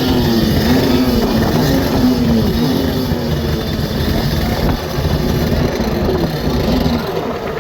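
Jet ski engines revving, their pitch rising and falling again and again in quick swells, with a broad rushing noise underneath.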